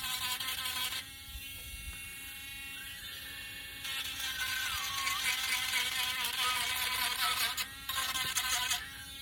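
Small handheld electric sanding tool buzzing against wood, with a scratchy sanding hiss. Its whine sags in pitch and recovers about halfway through as it is pressed into the work, and the sound drops back about a second in and again near the end.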